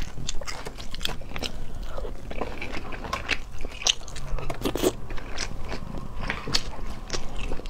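Close-miked mouth sounds of a person biting and chewing sea snail meat, a quick, uneven run of short clicks and crunches.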